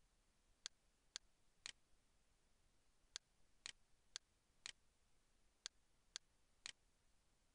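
Near silence broken by about ten faint, sharp clicks that fall on an even half-second beat, with a few beats skipped.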